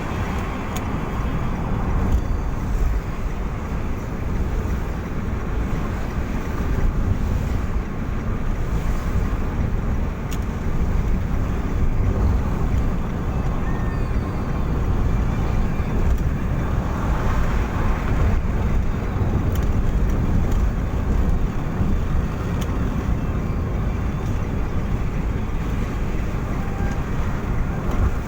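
A vehicle on the move: steady low engine and road rumble, with wind buffeting the microphone.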